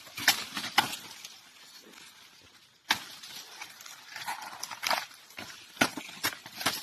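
Dry corn stalks being chopped into short pieces: a run of sharp, irregular cracks and crunches with dry leaf rustle. The chopping pauses briefly and starts again with a loud crack about three seconds in.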